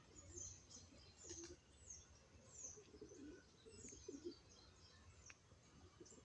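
Faint birdsong: short, high chirps that sweep downward, repeating about once or twice a second, with a few low cooing notes beneath.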